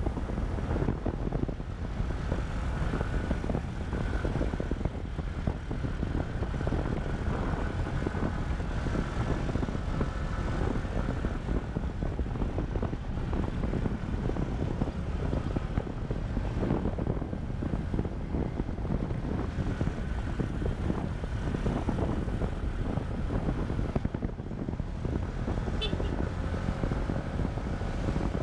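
Motorcycle engine running steadily under way, with a dense low rumble of wind on the microphone.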